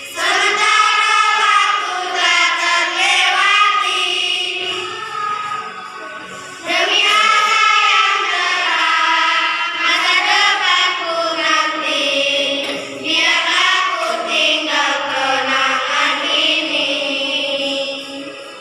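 Children's choir singing a song together in sung phrases, with a short pause about six seconds in before the next phrase starts.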